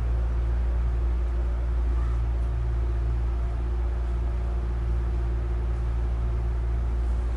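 Inside a Hankyu 9000 series electric train car: a steady low hum and rumble with a constant tone over it, and no rising or falling motor whine.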